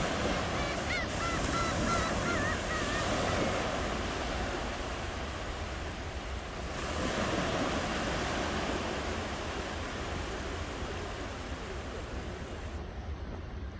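Ocean surf: waves washing in with a steady rush that swells twice. A bird gives a run of short, wavering calls in the first few seconds.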